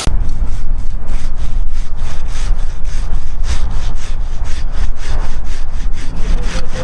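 Saw cutting wood with quick, even rasping strokes, about four to five a second, over a low rumble.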